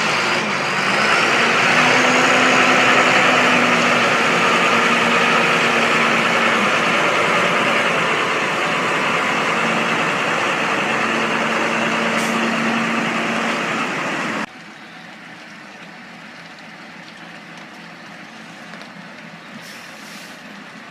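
A heavy vehicle's engine running with a loud, steady rushing noise and a faint hum. It cuts off abruptly about fourteen seconds in, leaving a much quieter steady noise.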